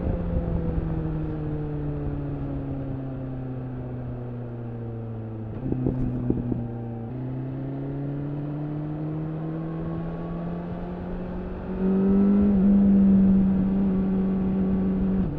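BMW S1000RR inline-four engine through an Akrapovič slip-on exhaust. The engine note falls steadily for about five seconds as the bike slows, goes uneven briefly around six seconds in, then climbs again as it accelerates. It gets louder about twelve seconds in and then holds steady.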